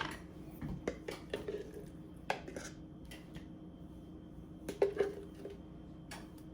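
A few light clinks and taps of a utensil against dishes as mayonnaise is scooped into a bowl, with a small cluster of taps about five seconds in.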